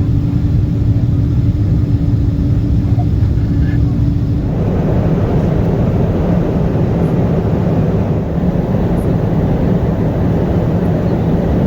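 Boeing 777 cabin noise: a steady drone of engines and airflow with a low hum. About four and a half seconds in, a louder rushing noise joins it and stays.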